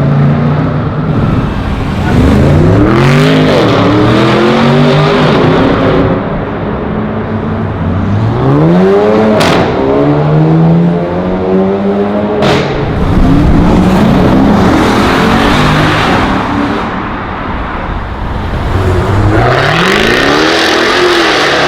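Sports car engines accelerating hard one after another in three separate pulls, the engine pitch climbing and dropping back at each upshift. Two sharp cracks come in the middle, about three seconds apart.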